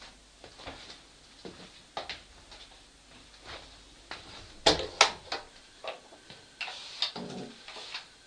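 Scattered light knocks and clicks, with two sharp, louder knocks in quick succession about halfway through.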